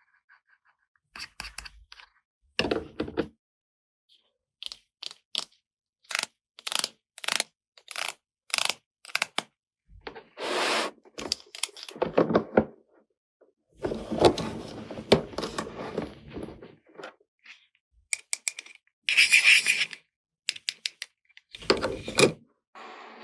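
Plastic toy pieces and packaging handled close to the microphone: a series of short sharp clicks and taps, broken by several longer rustling scrapes.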